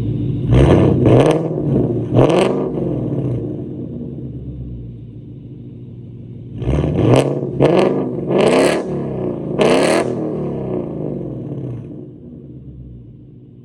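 2022 Mustang GT's 5.0 V8 with muffler-delete and X-pipe exhaust, revved in two bursts of quick throttle blips with idle in between. The idle settles and quiets near the end.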